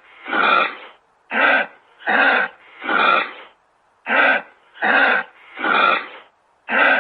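A wild animal giving a repeated series of harsh, breathy calls, each about half a second long, in groups of three with the third call of each group the longest.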